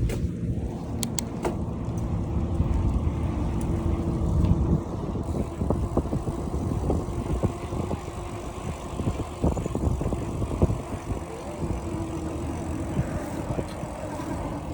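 Riding noise from a bicycle on city streets: a steady low rumble of road and wind with frequent small clicks and rattles, with traffic passing.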